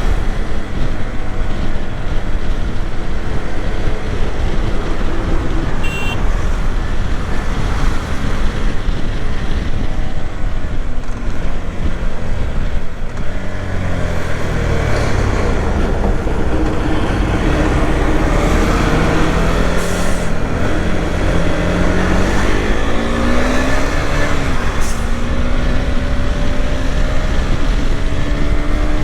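KTM 390 Adventure's single-cylinder engine and exhaust under way, its pitch falling and rising several times with the throttle, under a heavy rush of wind on the microphone.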